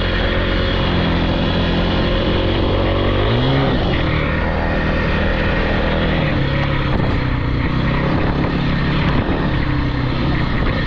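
Off-road vehicle engine running close by, its pitch rising sharply about three and a half seconds in as it is revved, then rising and falling with the throttle.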